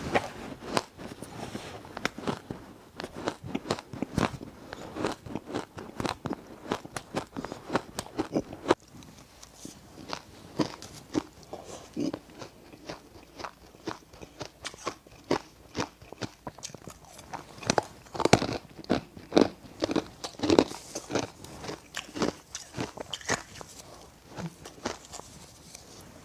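Close-up crunching and chewing of ice: a rapid, irregular run of crisp crunches and cracks as the ice is bitten and chewed.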